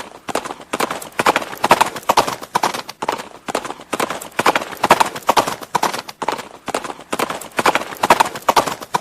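Horse hooves clip-clopping in a steady walking rhythm, the strikes coming in repeated clusters of sharp knocks.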